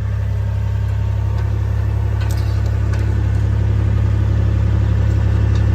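Oliver 1750 tractor's six-cylinder engine running steadily, a deep, even, rapid pulse.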